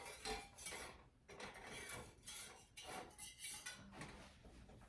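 Balloon whisk scraping around a saucepan of thickening lemon curd in quick repeated strokes, about two or three a second, dying away near the end.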